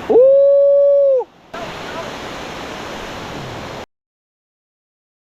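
A loud, steady one-pitch tone held for about a second, then the rushing whitewater of a waterfall, which cuts off abruptly about four seconds in.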